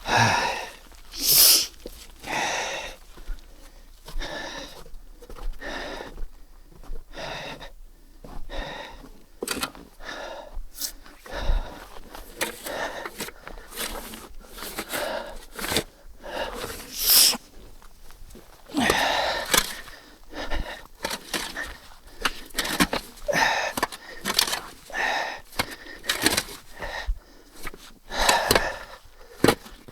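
Snow being shovelled: a run of irregular scraping strokes, about one every second or so.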